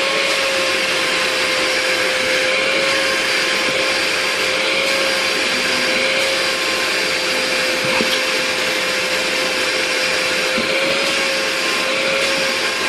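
Vacuum cleaner running steadily: a constant motor whine over the rush of air, with a faint click about eight seconds in.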